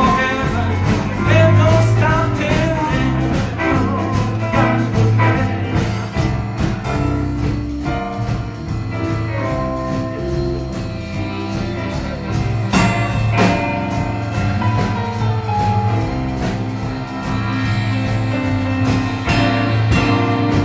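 A live blues-gospel band playing, with guitar, bass and drum kit keeping a steady beat.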